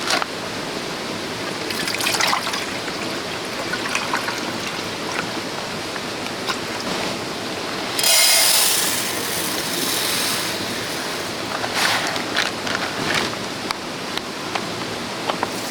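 Stream flowing steadily over rocks, with a louder hissing rush of about two seconds about halfway through and scattered light clicks and knocks.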